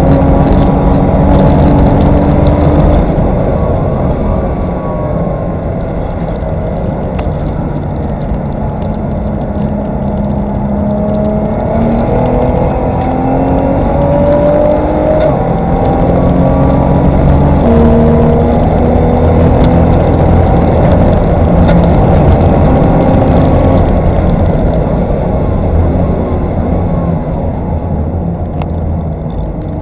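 Race-prepared Nissan GT-R R35's twin-turbo V6 with an aftermarket exhaust, heard from inside the cabin on track. The engine note climbs through the gears with several upshifts, easing off into corners a few seconds in and again near the end.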